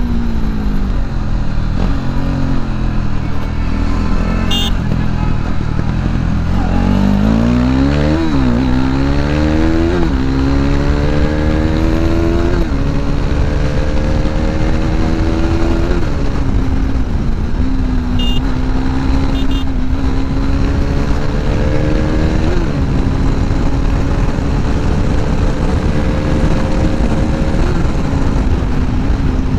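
KTM RC 390's single-cylinder engine with wind noise over the microphone. The engine note sinks for the first few seconds, then from about six seconds in climbs hard under full throttle, dropping back at each upshift. The climbs grow longer and gentler as speed builds.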